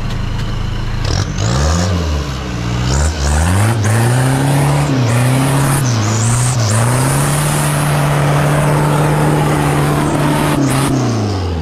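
Off-road racing 4x4's engine revving hard under load in several rising and falling surges, then held at high revs for a few seconds before dropping off near the end, as the car climbs out of a steep dirt trench with its tyres churning dirt.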